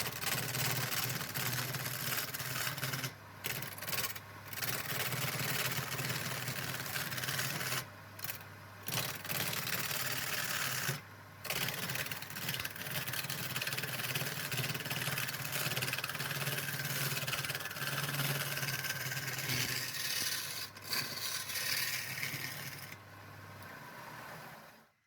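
Electric power-tool motor running steadily while working wood, with a loud grinding, rasping noise that breaks off briefly several times as the tool leaves the work. The motor winds down and stops near the end.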